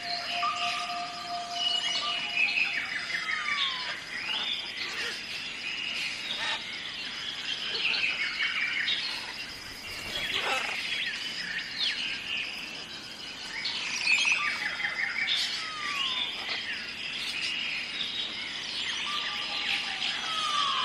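A chorus of many birds chirping and calling, with short falling whistles throughout, over a continuous high-pitched drone.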